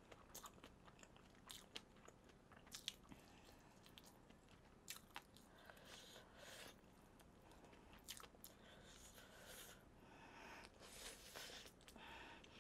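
Faint close-up chewing and biting of crispy fried chicken, with sharp, irregular crackles from the crust.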